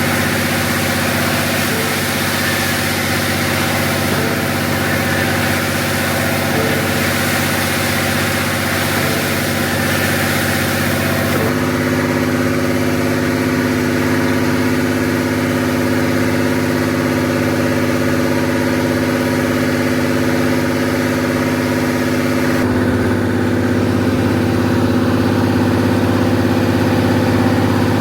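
Concrete mixer truck's diesel engine running steadily, its tone changing abruptly twice, at about the 11.5 s and 22.7 s marks.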